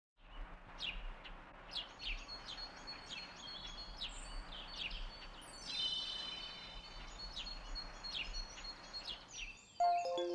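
Wild birds singing: many short, quickly falling chirps and a few held high notes, over a steady outdoor hiss. Background music comes in near the end.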